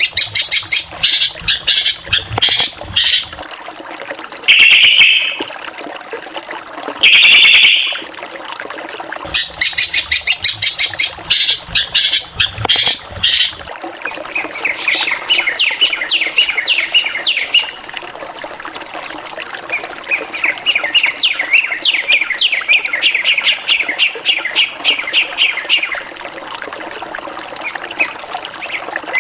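A drongo singing a varied song: two runs of rapid repeated high notes with two short harsh squawks between them, then a long series of quick down-slurred whistled notes.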